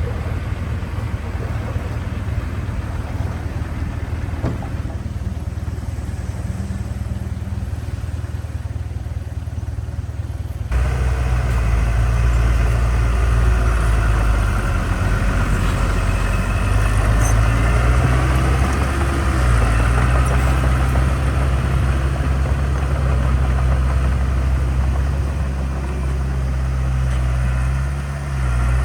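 Heavy construction machine's diesel engine running steadily. About a third of the way in, the sound jumps suddenly to a louder, deeper engine note.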